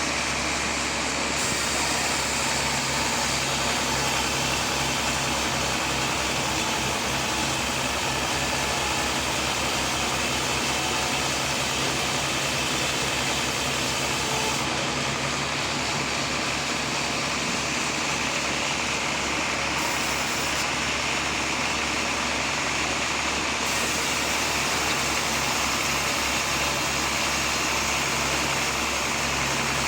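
Sawmill machinery running steadily, a constant engine-like drone with a low hum and no change in load.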